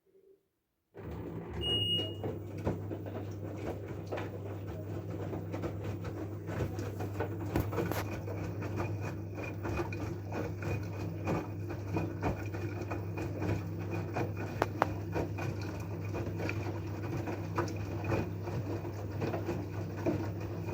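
LG F12A8ND front-loading washing machine running: a steady motor hum with many small clicks and knocks from the turning drum. It starts abruptly about a second in and stops just at the end.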